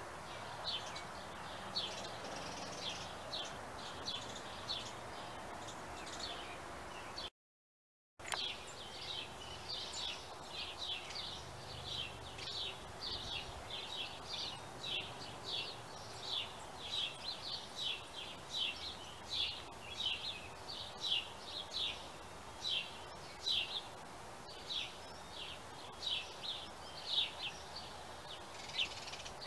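Small birds chirping, many short high chirps a few each second, over a faint steady background hiss. The sound cuts out completely for under a second about seven seconds in.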